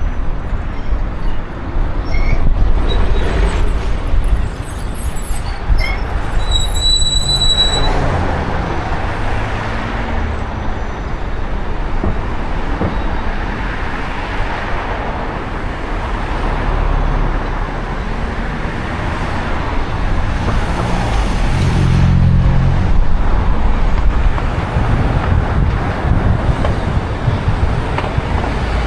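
Road traffic noise: a steady hiss of vehicles, with heavier engines passing about eight seconds in and again past twenty seconds. A brief high-pitched squeal comes about seven seconds in.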